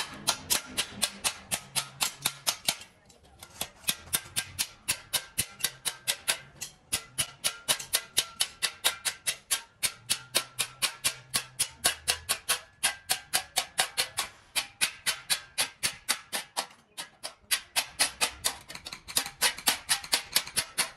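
A hand tool working in rapid, even strokes, about four to five a second, with a few short pauses between runs.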